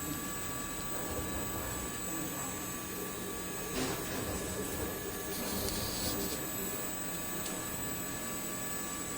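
4-axis CNC milling router with a rotating spindle running: a steady machine noise with several steady high whining tones, and a brief swell of noise about four seconds in.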